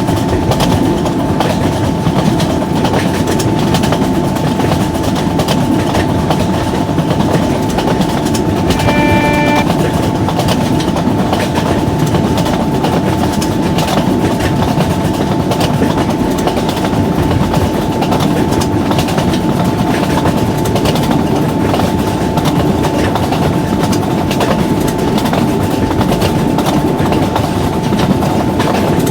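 Train running at speed, its wheels clattering steadily over the rails with a constant rumble and a steady hum. A brief pitched tone sounds about nine seconds in.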